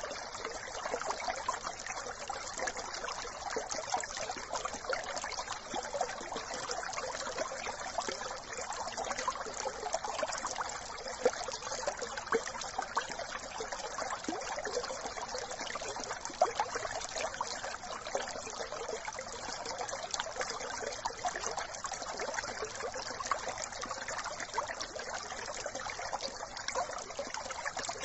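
A small brook babbling steadily, a continuous trickle of running water.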